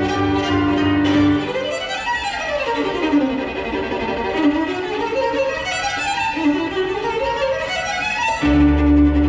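Violin playing, with a held note over a low bass at first, then fast sweeping runs that slide down and back up in pitch several times, before the held note and bass return near the end.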